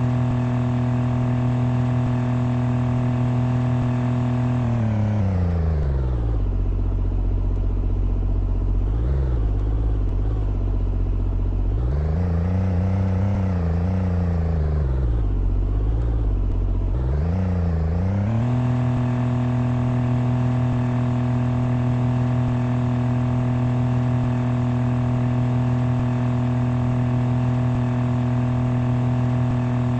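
A motor engine running at a steady speed. About four seconds in its pitch drops; it runs low for a while, rising and falling a few times, then climbs back about eighteen seconds in and runs steadily again.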